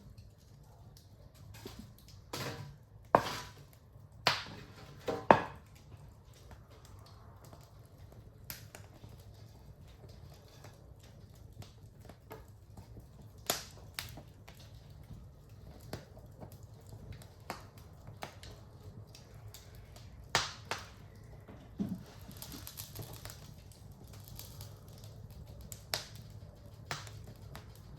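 Wood fire burning in a fireplace, crackling with irregular sharp pops over a low steady rumble; a few of the loudest pops come close together about three to five seconds in.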